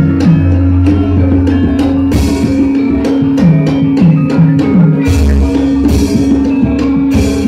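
Javanese gamelan ensemble playing, with sustained ringing metal tones under a busy pattern of hand-drum strokes that drop in pitch, and sharp struck metallophone notes.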